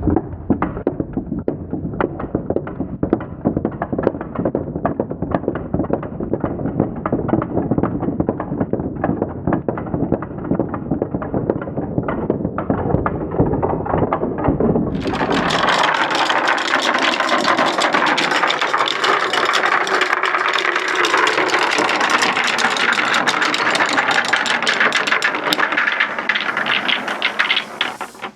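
Many marbles rolling and clattering down wooden ramps in a dense stream of clicks and knocks. About halfway through the sound turns abruptly brighter and denser, a continuous rattle, before it falls away near the end.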